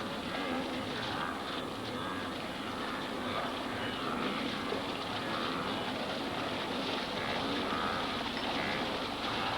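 A dense herd of wildebeest wading into a river, with continuous splashing and jostling noise.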